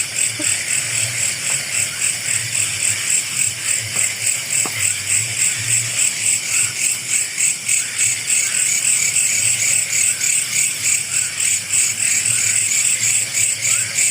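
Night-time chorus of crickets and other insects: a steady, shrill, pulsing trill.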